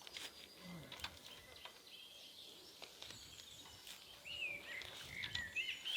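Faint outdoor ambience with scattered clicks and rustles, then birds chirping from about four seconds in.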